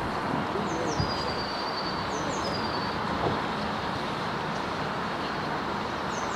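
A songbird calling high over a steady background rush: two quick high notes, then a long, slightly falling whistle, heard twice in the first half.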